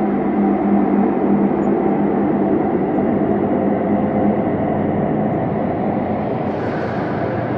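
Synthesised ambient space drone: a low, steady rumbling hum with a few held low tones. A faint airy hiss rises in above it near the end.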